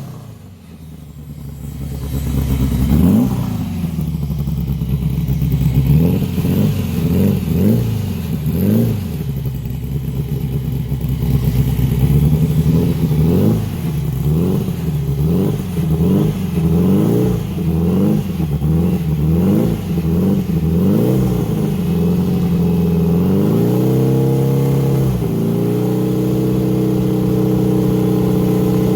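A car engine running, its pitch rising and falling over and over as it is revved up and down, then holding steadier near the end.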